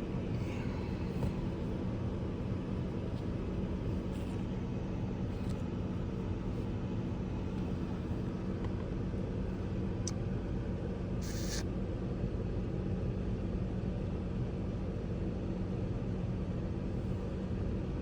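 Ford Ranger engine idling steadily with an even hum, running smoothly on its new ignition coil with no current misfires.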